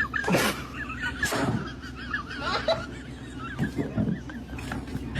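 An animal calling in quick, wavering, warbling cries, with a few louder short cries among them.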